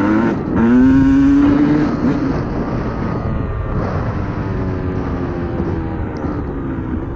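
Yamaha YZ250 single-cylinder two-stroke dirt bike engine revving up hard about half a second in, holding high for a second or so, then easing back to a lower, steadier pull.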